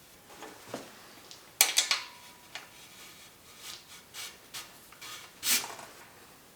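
Small metal bicycle parts and tools being handled on a workbench: irregular clinks and knocks, the loudest a quick cluster of clinks with a short ring about a second and a half in, and a longer clatter near the end.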